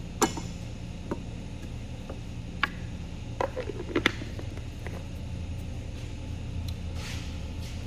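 Several sharp knocks and clinks of hard objects being handled and set down, loudest about a quarter second in and around four seconds in, over a steady low hum.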